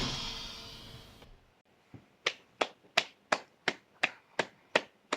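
The last chord of a live rock cover rings out and fades over about a second. After a short pause come steady finger snaps, about three a second.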